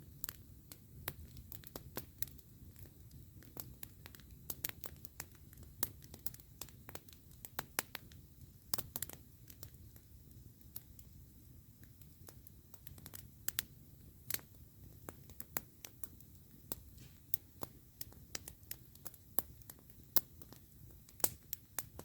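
Wood campfire crackling: irregular sharp snaps and pops, several a second, over a low steady rumble.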